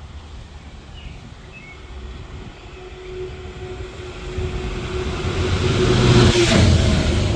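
A train approaching and passing at speed: its rumble builds over several seconds and peaks about six seconds in, and a steady tone drops in pitch as it goes by.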